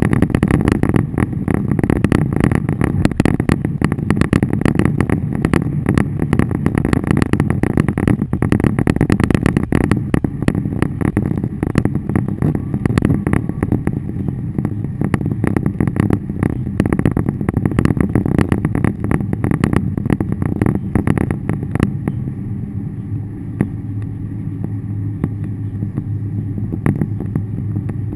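Car driving, heard from inside the cabin: a steady engine and road rumble under a dense run of small crackling hits. About 22 seconds in, the hits thin out and a steadier low hum is left.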